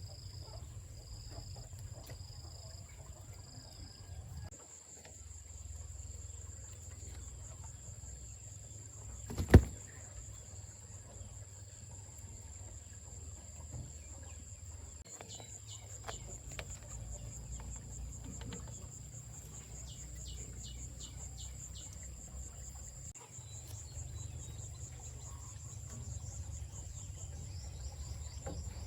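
Steady high-pitched insect trilling over a low rumble, with short runs of clicking chirps. A single sharp knock stands out about ten seconds in.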